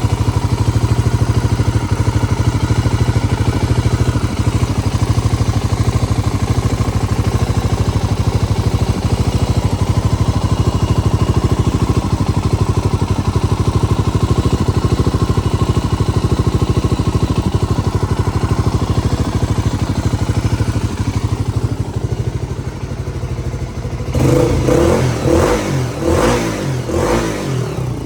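Honda GB250 Clubman's single-cylinder four-stroke engine idling steadily, then, about 24 seconds in, revved in a series of quick throttle blips.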